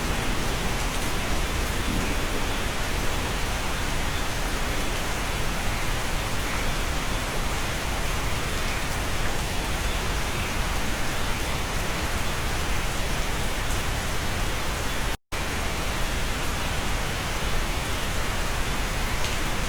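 Steady, heavy rain heard from inside a cabin, an even rushing hiss with no distinct drops standing out. It cuts out for a split second about fifteen seconds in, then carries on unchanged.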